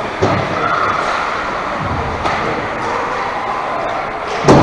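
Sharp thuds against a steady background of game noise in a large hall: one a quarter second in, a faint one around two seconds, and a louder bang near the end.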